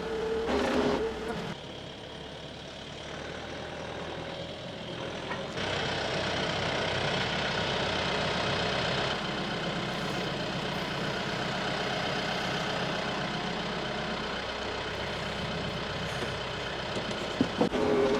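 Tractor engine running steadily, with abrupt changes in its sound that suggest cuts between shots.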